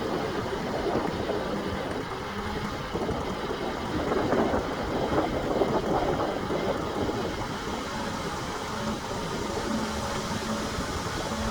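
Heavy earthmoving machinery running: a diesel engine with metallic clatter, louder for a few seconds in the middle.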